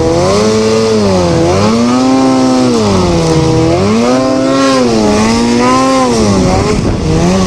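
Snowmobile engine running hard through deep powder, its pitch rising and falling over and over, about once a second, as the throttle is worked.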